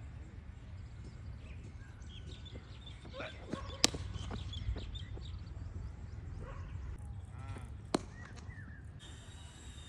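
Two sharp cracks of a cricket bat striking a leather ball, one about four seconds in and another about four seconds later.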